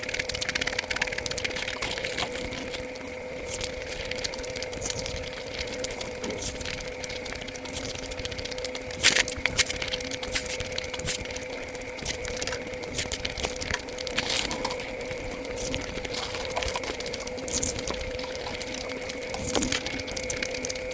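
Mukbang eating sounds sped up fivefold: a fast, dense clatter of chewing, lip-smacking and mouth clicks from eating luchi (puri) with curry, over a steady faint hum.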